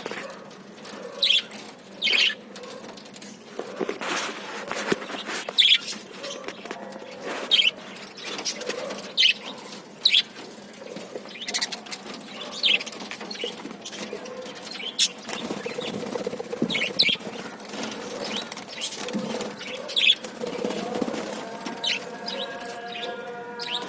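A colony of budgerigars chirping and chattering, with sharp high chirps every second or two over a steady lower twitter.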